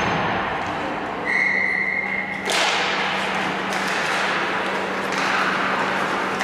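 A referee's whistle blown once, a steady tone held for about a second, cut off by a sudden loud burst of noise. A steady low hum runs underneath.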